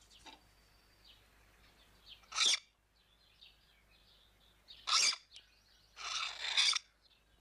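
Faint birds chirping, broken by three short hissing sounds, the last lasting nearly a second.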